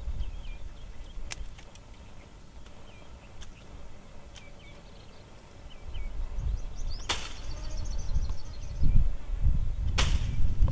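Small birds chirping over a low rumble, with two sharp swishing sounds about seven and ten seconds in.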